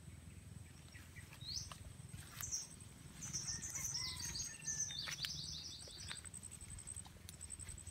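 Small birds chirping: a single rising chirp about a second and a half in, then a quick run of short high chirps in the middle.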